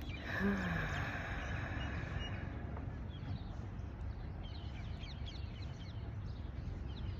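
Small birds chirping in quick repeated short calls over a steady low outdoor rumble, with a brief falling call near the start.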